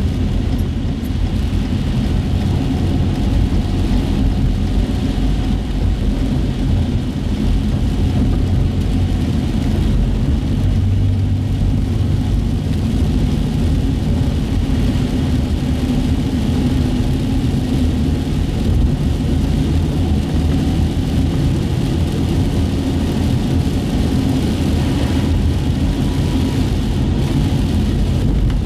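Steady low rumble of a car's engine and road noise heard from inside the cabin while driving, with tyre hiss on wet pavement.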